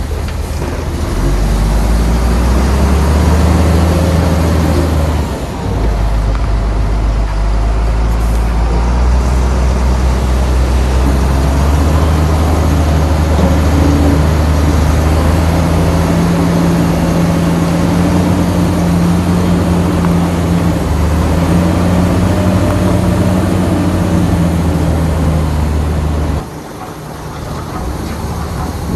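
Shantui bulldozer's diesel engine running loudly under load, its pitch shifting up and down in steps, then falling off abruptly near the end.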